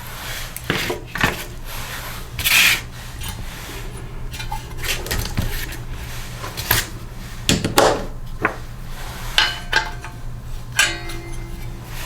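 Scattered metal clinks, clicks and scrapes of hand tools on small engine parts, as the kill wire is taken off a Briggs & Stratton mower engine's flywheel brake and kill switch, over a steady low hum.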